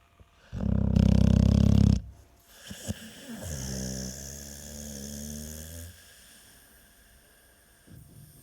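American Staffordshire Terrier snoring in its sleep. About half a second in there is one loud snore lasting over a second, then a quieter, longer snore that dips in pitch as it starts.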